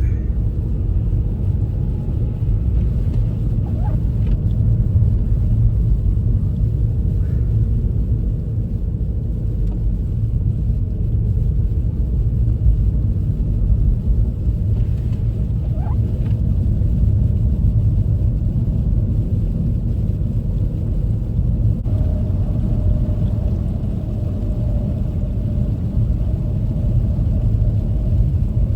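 Steady low rumble of a front-wheel-drive car driving on a snowy road on winter tyres, heard from inside the cabin. A faint steady hum joins in about three quarters of the way through.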